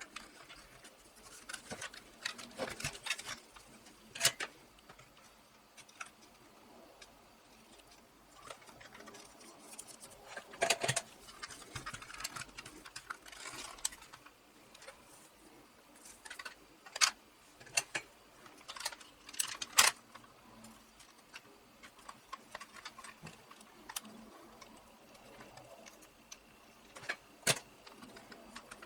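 Irregular small clicks, taps and rattles of small parts being handled and fitted by hand, with a few sharper clicks and busier clusters of clatter.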